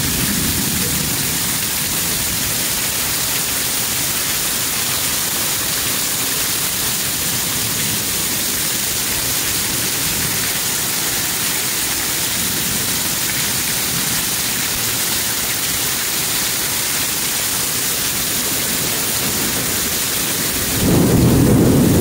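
Heavy rain pouring down, a dense steady hiss. Near the end a deeper, louder rumble comes in under it.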